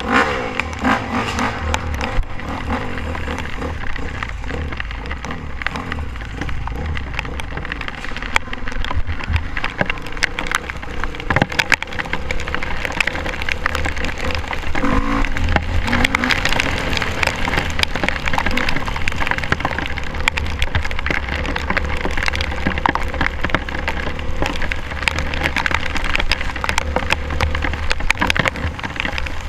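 Rain and spatter hitting a GoPro camera housing in a dense, crackling patter of sharp clicks, over a low steady rumble.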